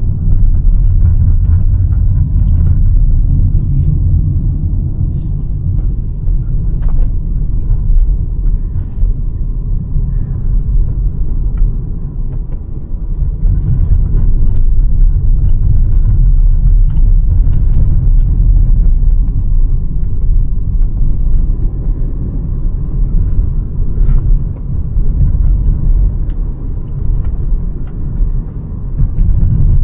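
Hyundai Verna 1.5 turbo petrol car on the move, its engine and road noise making a loud, steady low rumble with small scattered clicks. The rumble eases briefly about twelve seconds in and again near the end.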